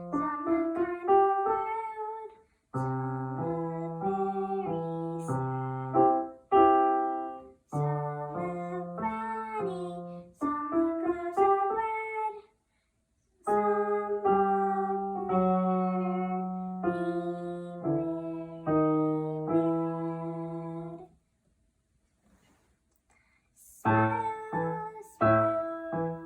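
Solo piano playing a simple tune, melody over bass notes. It breaks off briefly between phrases, then stops for about two seconds near the end before playing starts again.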